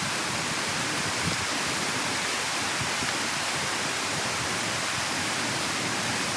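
Steady rushing water: an even hiss with no separate splashes or knocks.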